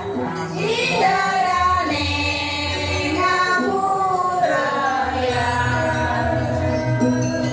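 Group of voices singing a Balinese janger song in long, held notes that slide between pitches, over a steady low instrumental backing.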